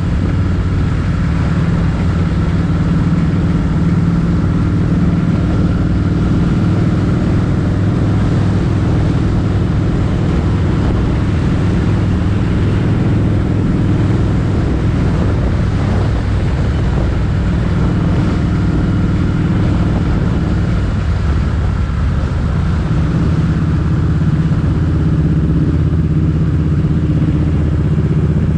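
Motorcycle engine running steadily on the move. The engine note weakens and shifts briefly about three-quarters of the way through, then steadies again.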